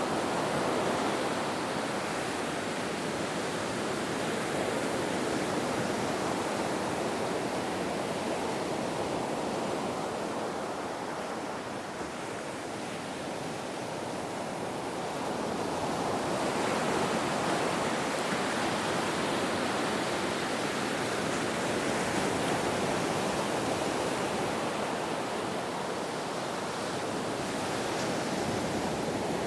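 Ocean waves washing onto a shore in a steady wash of surf, swelling and easing slowly, quietest about midway and building again after.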